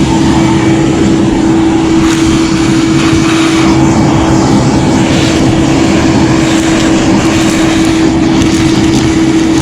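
A machine running steadily: one constant hum over a rushing noise.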